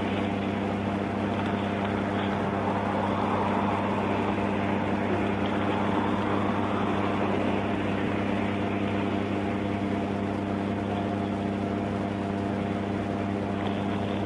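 Vehicle engine idling: a steady, even hum that does not change.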